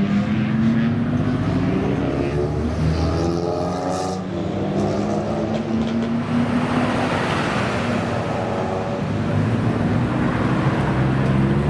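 Modified cars' engines and loud aftermarket exhausts running and revving as they pass one after another. Their pitch rises and falls, with a louder, rougher pass in the middle.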